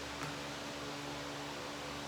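Steady background hiss with a faint constant hum, and one soft tap about a quarter second in.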